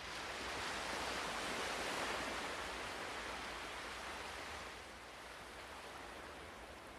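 Ocean waves: a wave washes in, its rushing hiss swelling over the first two seconds and then slowly fading as it draws back.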